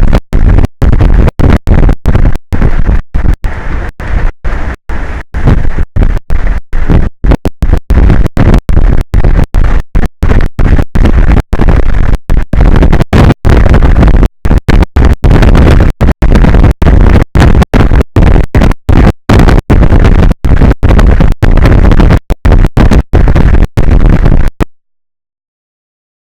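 Heavy wind buffeting an exposed outdoor microphone, overloading it into loud, clipped low rumble. The audio keeps dropping out for split seconds, many times, and cuts off to silence shortly before the end.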